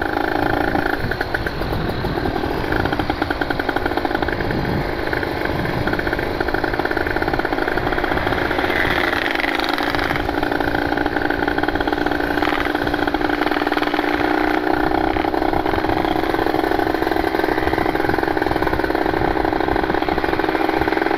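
Kawasaki Ninja RR's street-ported 150 cc single-cylinder two-stroke engine running steadily under throttle while being ridden, pulled hard but not to full throttle.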